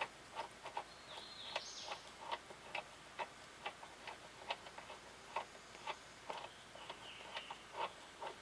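Faint, light clicks and ticks, two or three a second at uneven spacing, with two brief high chirps: one about a second in and one near the end.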